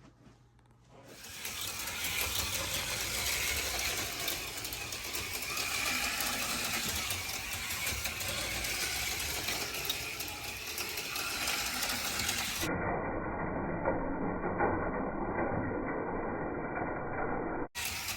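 HO scale slot cars, an AFX Mega G stock car and a Tyco Cliffhanger, running on the track: small electric motors whirring steadily with a mechanical rattle, building up about a second in. The sound turns duller for a few seconds after the middle and cuts out briefly near the end.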